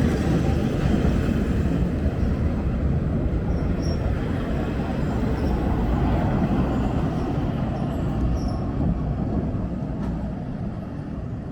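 Train on the railway running with a steady low rumble that slowly fades.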